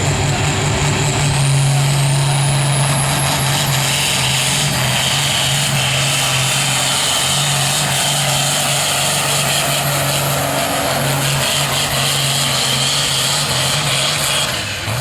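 Turbocharged engine of a pulling truck or tractor under full load as it drags the weight sled down the track, with a high turbo whistle climbing in the first couple of seconds. The engine note holds steady until it drops off near the end as the run finishes.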